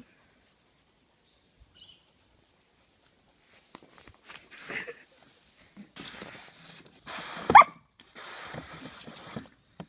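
A dog gives one short high squeal that rises in pitch, about two and a half seconds before the end, amid bursts of hissing noise about a second long each; the first few seconds are nearly silent.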